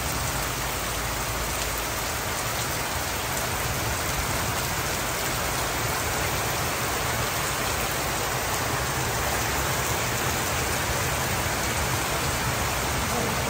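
Heavy rain falling steadily, a dense, even hiss of a sudden downpour.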